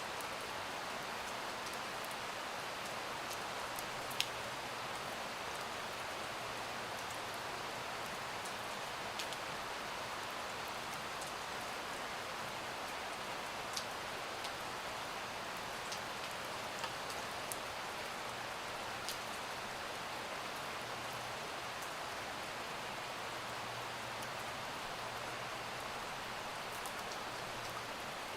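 Steady rain: an even hiss with a few scattered sharp ticks, the strongest about four seconds in.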